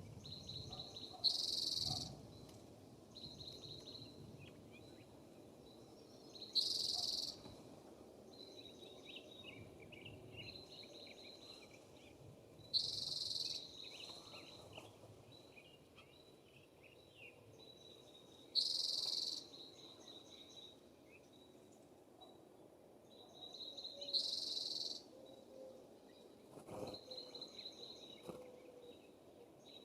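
Outdoor wildlife sounds: a loud, buzzy, high-pitched call about a second long repeats about every six seconds, over a steady high trill that keeps breaking off and scattered soft bird chirps.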